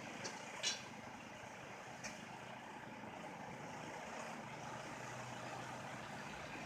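Truck engine running steadily, faint and even, with a few short clicks, the loudest about two-thirds of a second in.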